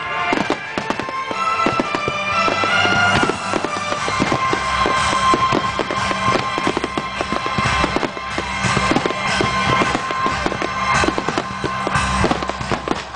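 Finale barrage of aerial firework shells: many bursts and crackles in rapid, near-continuous succession, with music playing underneath.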